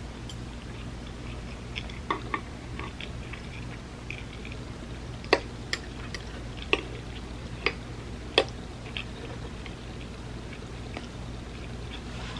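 Close-miked chewing of vegan spam musubi: soft wet mouth clicks and smacks come at irregular intervals, sharpest and most frequent in the middle of the stretch. A steady low hum runs underneath.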